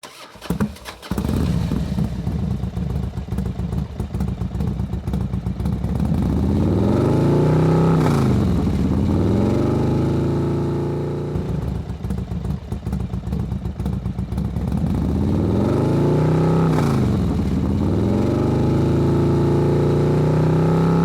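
Motorcycle engine running steadily, revved up and back down twice, the pitch rising and falling each time.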